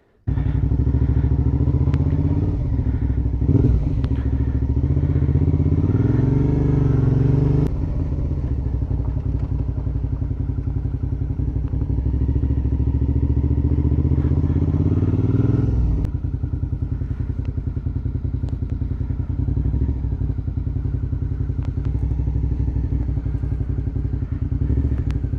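Suzuki V-Strom 650XT's V-twin engine running as the motorcycle is ridden, its note rising over the first few seconds, dropping back about eight seconds in and changing again around sixteen seconds in with throttle and gear changes.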